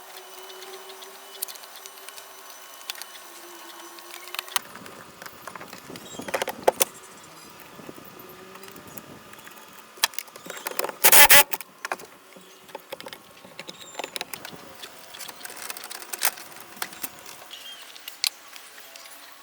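Workshop handling sounds: light metallic clicks and clinks of tools and parts, with one short, loud burst of noise about eleven seconds in.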